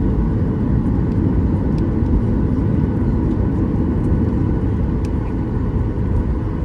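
Steady cabin noise of a Boeing 737-800: the low, even rush of its CFM56 jet engines and airflow, with faint steady tones.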